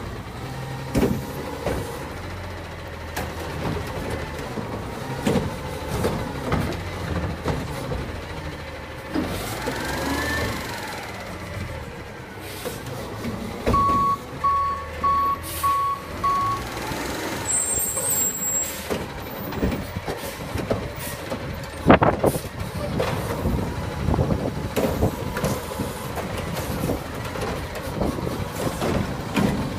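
Garbage truck collecting yard waste: engine running with repeated clanks and knocks, a reversing beeper sounding about five times about halfway through, and one sharp loud bang a little later.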